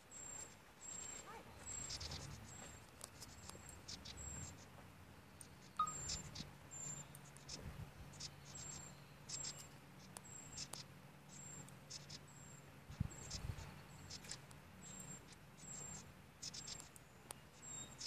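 Bird in a nest hole chattering faintly: a long series of short, very high-pitched notes, repeated one or two times a second.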